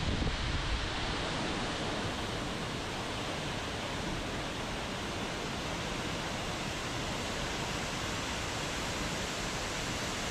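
Waterfall: a steady, unbroken rush of falling water. Wind buffets the microphone in the first second.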